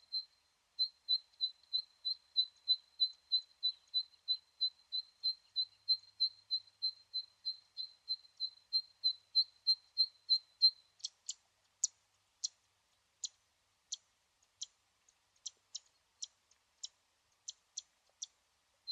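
A small animal's high, even chirp repeated about three times a second, giving way about eleven seconds in to sharper, irregular clicking calls.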